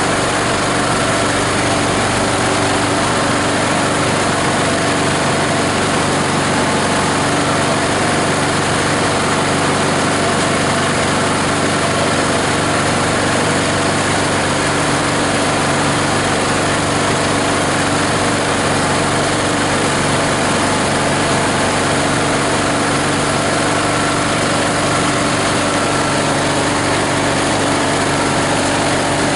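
The 18 HP diesel engine of a plastic grinder running steadily at an even speed.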